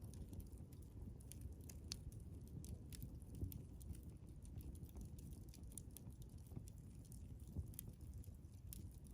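Wood campfire crackling, with scattered sharp pops over a faint low rumble.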